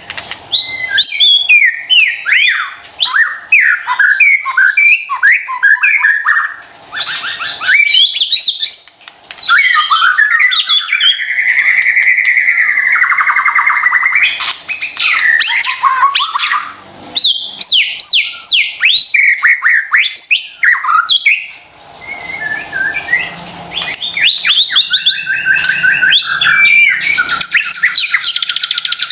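White-rumped shama (murai batu) in full song: a loud, varied run of quick whistled phrases, trills and harsh chattering notes in bursts with short pauses, including one long held whistle about a third of the way in.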